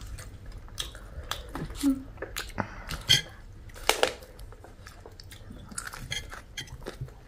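Close-up chewing and mouth sounds of people eating, with scattered short wet clicks and crackles.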